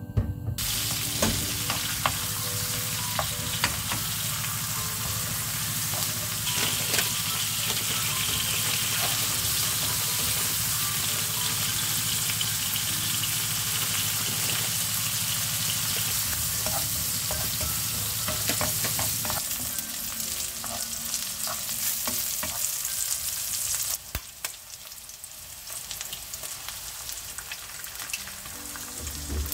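Sliced green onions and small shrimp sizzling in oil in a nonstick wok, stirred with a wooden spoon, with scattered scraping clicks. The sizzle drops much quieter about three-quarters of the way through.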